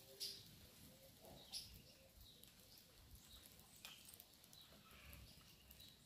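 Faint, scattered short chirps from a flock of small birds feeding on grain, with a few brief sharp ticks.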